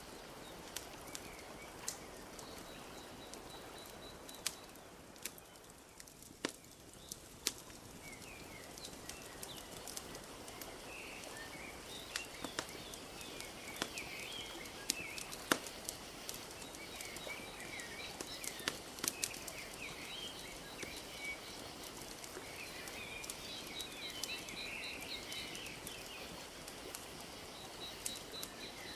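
Wood fire crackling with scattered sharp pops, over a steady wash of lake water lapping, while small birds chirp and twitter off and on, busiest in the second half.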